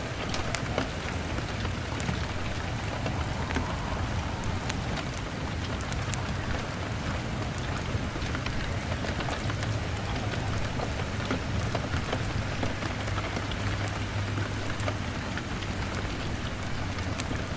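Steady rain on a window pane with scattered sharp crackles from a log fire, over a low rumble that swells in the middle.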